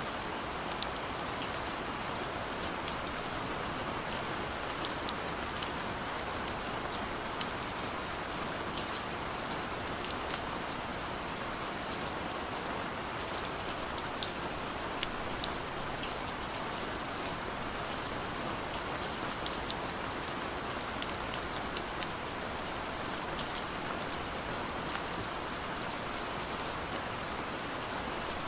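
Gentle steady rain: an even hiss of rainfall with many scattered individual drop ticks throughout.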